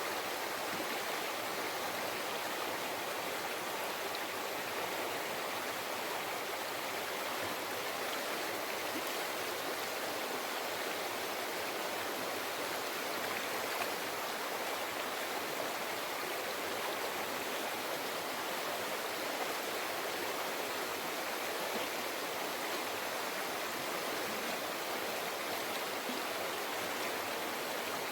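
Mountain forest river flowing over rocks: a steady, even rush of babbling water.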